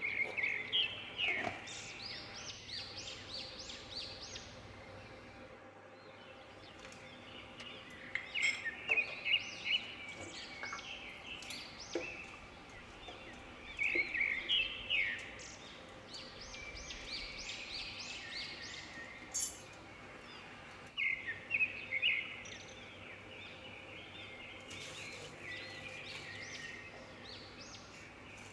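Birds chirping in short runs of quick repeated notes every several seconds, over a faint steady background hum.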